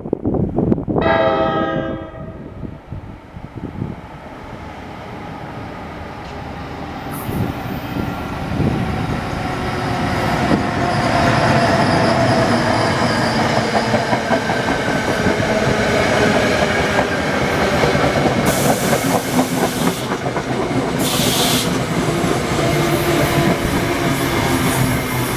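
An NJ Transit Bombardier ALP-46 electric locomotive's K5LA air horn sounds one short blast about a second in. Then the train's running noise builds as the locomotive and Comet coaches pass close by, wheels clattering over the rails, with two brief high hisses near the end.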